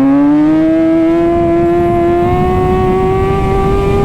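Kawasaki ZX-6R's inline-four engine through an Arrow titanium exhaust, pulling steadily under way with the revs climbing slowly, over low wind rumble.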